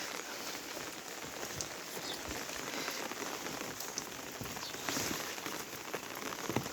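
Monsoon rain falling steadily: an even hiss of rain with scattered sharper drop ticks.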